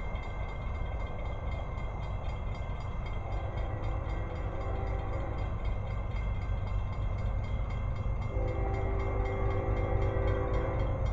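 Approaching train: a steady low locomotive rumble growing slowly louder, with two blasts of a multi-tone locomotive horn, the second longer.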